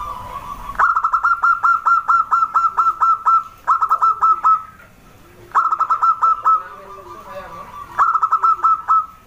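Zebra dove (perkutut) singing: three bouts of rapid staccato cooing notes, about five a second. The first bout is the longest, about four seconds.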